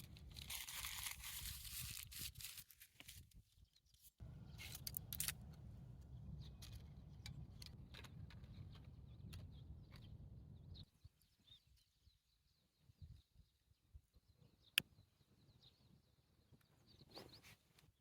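Quiet handling sounds: a crinkling, tearing rustle as if packaging is being opened, then a low rumble with scattered clicks that stops about eleven seconds in. After that come faint bird chirps and one sharp click.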